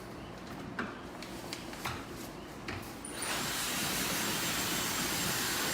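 A few light clicks, then a hair blow dryer switches on about three seconds in and runs with a steady rush of air.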